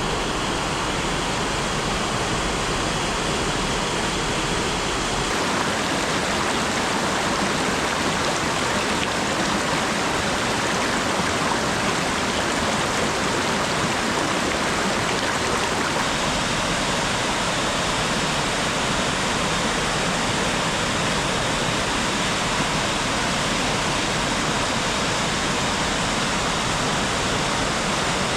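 Steady autumn rain falling, an even rushing hiss with no single drops standing out.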